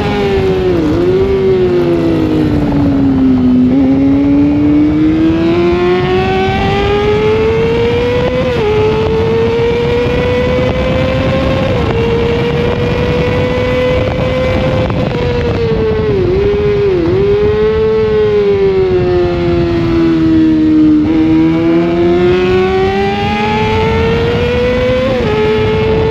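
Sportbike engine heard from onboard at racing speed over wind rush. The engine note falls under braking with quick blips on the downshifts near the start and again about two-thirds of the way in. Between those it climbs through the gears as the rider accelerates, and it climbs again near the end.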